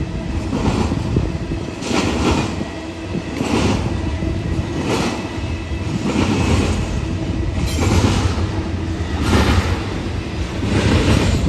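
BNSF intermodal stack train running: a steady low rumble with a swell of noise about every second and a half.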